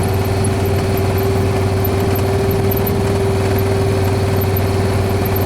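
Vehicle engine running steadily at an unchanging pitch, a low hum with a steady whine over it.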